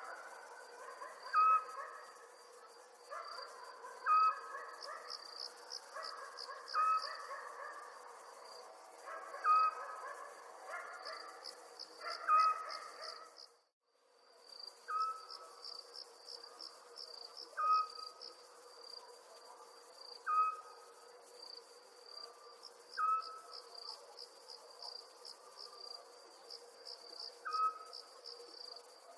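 Crickets chirping in quick high pulse trains, with a short call repeating about every two and a half seconds. The sound cuts out briefly about halfway through, then resumes.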